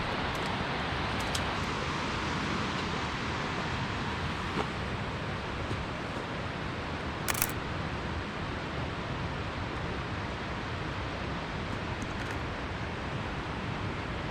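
Steady rush of running water, with a camera shutter clicking sharply once about halfway through.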